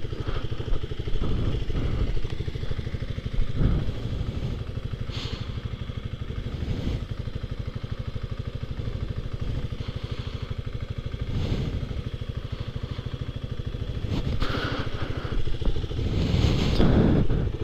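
Motorcycle engine idling steadily with a fast, even pulse, with a few brief louder bumps along the way.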